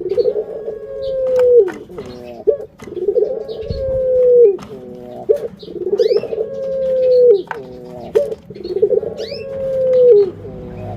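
Burung puter (domestic collared dove) cooing over and over: each call is a short stuttering run of notes followed by a long drawn-out coo that dips at the end, repeating about every three seconds, four times. Sharp clicks and faint high chirps fall between the calls.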